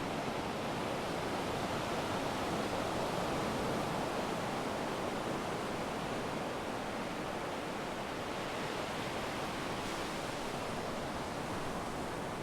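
Sea surf breaking and washing up the beach: a steady rush of waves that swells a little and then eases off.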